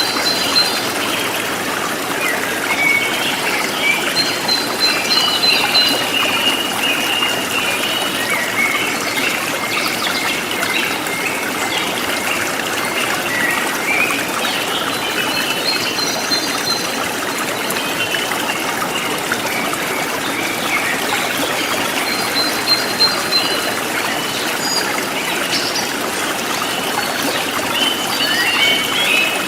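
Forest stream flowing steadily, with birds chirping in short repeated phrases over it every few seconds.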